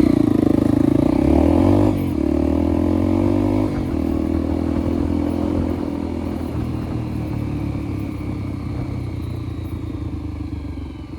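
Motorcycle engine running while riding, its note changing about two seconds in and again near four seconds, then gradually easing off.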